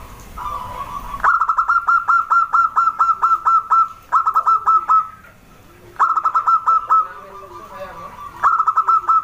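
Zebra dove (perkutut) singing: quick runs of staccato cooing notes, a long run of about a dozen notes starting about a second in, then three shorter runs with brief pauses between them.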